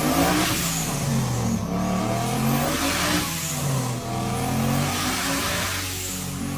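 Car engine and exhaust pulling hard under load on a chassis dynamometer. The pitch climbs steadily, drops back at each upshift and climbs again, about three times.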